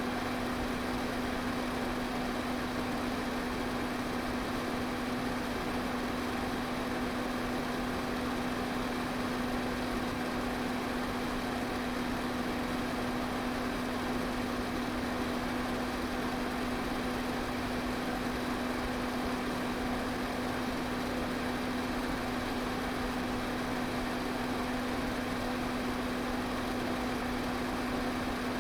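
Pedestal fan running steadily: an even rush of moving air with a constant low motor hum underneath.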